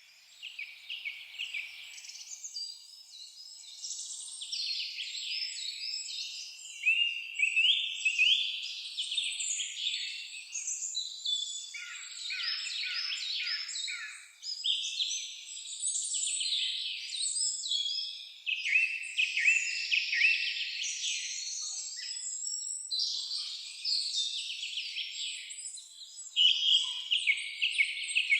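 Several songbirds singing and chirping together, a dense chorus of overlapping high trills and chirps that fades in at the start.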